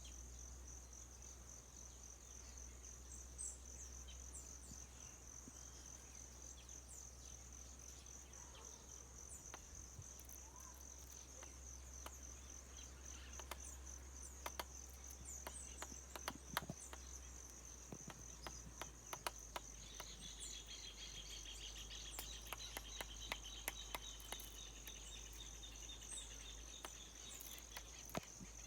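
A steady, high insect trill, with a bird's short, high call note repeated every few seconds. About two-thirds of the way through, a second, lower trill joins in, and there are scattered clicks.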